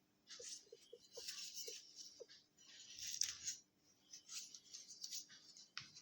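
Faint, irregular rustling with a few small clicks and a light knock near the end, as of objects being handled.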